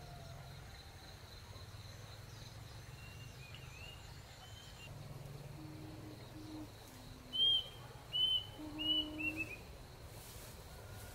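Rural outdoor ambience: a steady high insect drone through the first half, a few short low hooting notes around the middle, then a bird giving four short, sharp chirps, the loudest sounds, from about seven to nine and a half seconds in.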